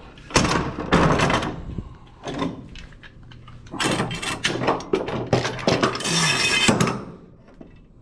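Metal bar clamps being loosened and lifted off a glued-up wood panel: a run of clunks and knocks, with a longer scrape a little before the end.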